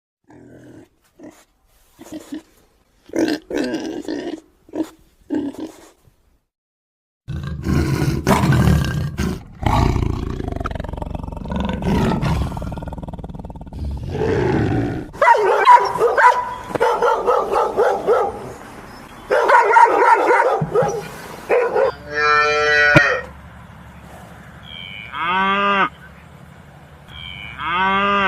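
A run of different animal calls, one after another: short pitched calls at first, then, after a brief silence, long rough calls, and near the end pitched calls that bend in pitch.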